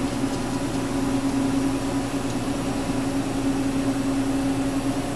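Gravograph M20 desktop engraving machine running steadily, its spindle cutting an anodized aluminum tag: a constant mechanical hum with one steady tone.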